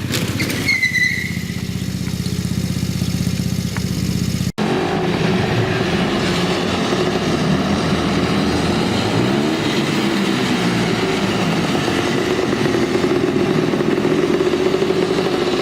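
A small petrol engine running steadily, with a clear pulsing note. About four and a half seconds in, the sound cuts abruptly to another engine running at a higher, steady pitch.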